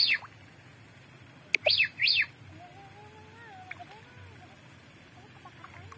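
A bird calls twice, the second time about a second and a half in. Each call is a sharp click followed by two or three quick, high notes that sweep downward.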